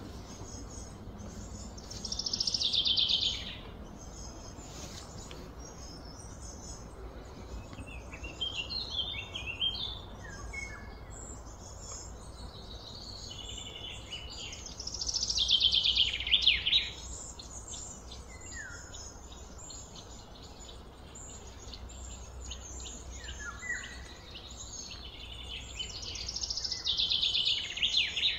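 Birdsong: a bird sings a loud, quickly trilled phrase that falls in pitch, three times about twelve seconds apart, with shorter chirps from other birds in between and a faint insect buzz throughout.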